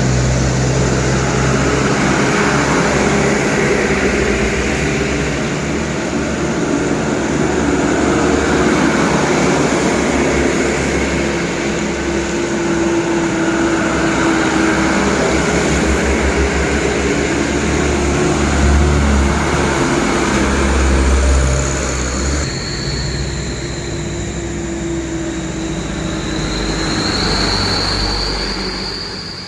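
Medium trucks driving past in convoy: steady engine running and tyre noise from the road. The sound changes abruptly about three-quarters of the way through.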